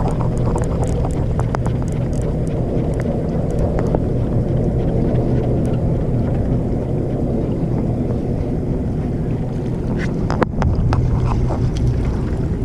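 Fishing boat's engine running steadily, with wind on the microphone, light scattered clicks and one sharp click about ten seconds in.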